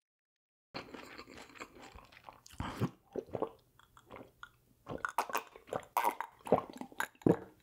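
Close-miked chewing and crunching of food by a person eating, in irregular bites. It starts suddenly just under a second in and gets louder and busier in the second half.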